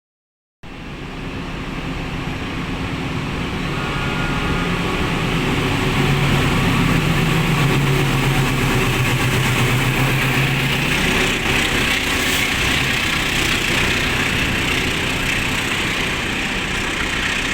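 Diesel locomotive engine running with train noise, growing louder over the first few seconds and then holding steady as a low hum under a broad hiss.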